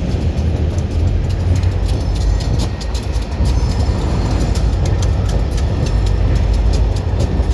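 Train rolling past close by: a steady low rumble with many sharp irregular clicks from the wheels on the rails.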